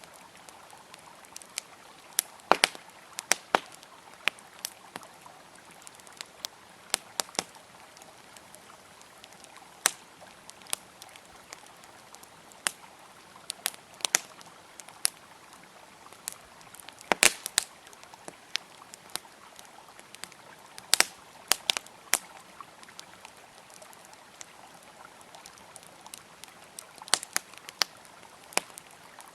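Campfire crackling with sharp, irregular pops, some coming in quick clusters, over a steady rush of flowing river water.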